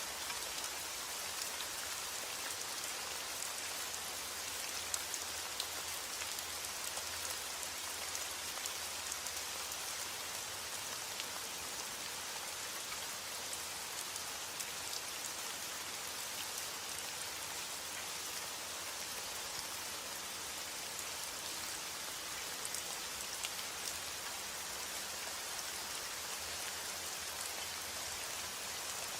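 Steady heavy rain falling, with scattered individual drops ticking through the even hiss.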